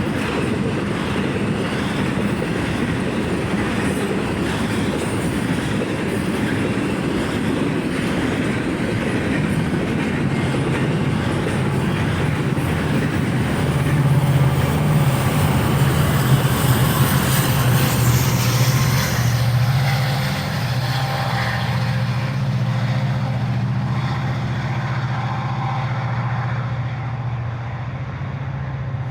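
A long freight train of stack and auto-rack cars rolling past with wheel clatter. About ten seconds in, a low diesel locomotive drone builds, loudest around the middle, as the rear distributed-power units (Union Pacific SD70ACe and SD70AH) go by. The train's sound then recedes.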